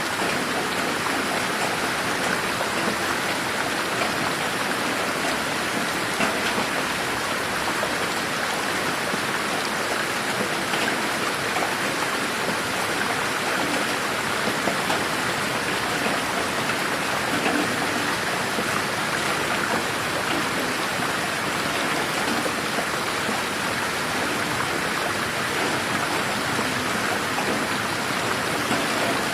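Steady rain falling in a garden, an even hiss of drops with no thunder, panned around the listener in an 8D mix.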